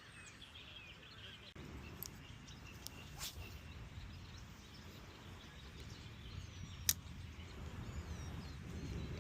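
Quiet outdoor ambience with a low rumbling noise that starts about a second and a half in, a few sharp clicks (the loudest near the end), and faint bird chirps.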